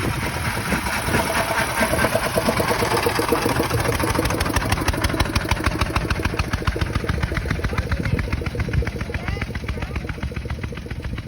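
1904 De Dion-Bouton veteran car's engine running with a fast, even chugging beat, growing quieter over the last few seconds.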